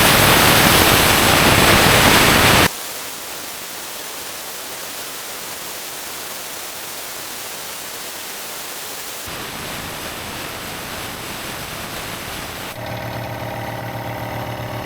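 Compressed air hissing out of an air compressor's tank, very loud at first and then dropping to a quieter hiss a few seconds in. Near the end the compressor's motor and pump start up with a steady hum: the newly replaced pressure switch is cutting in at about 125 psi.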